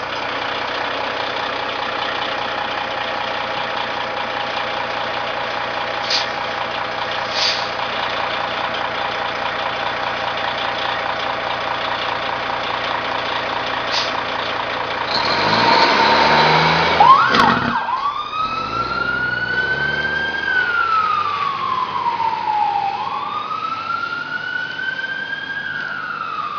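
Fire engine's engine running steadily, then revving up as the truck pulls out. Its siren starts in a slow wail, rising and falling twice.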